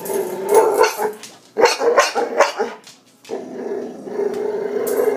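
Boxer dog growling, with a run of short, sharp barks in the middle. This is his real bark, which the owner puts down to kennel cough he had as a pup.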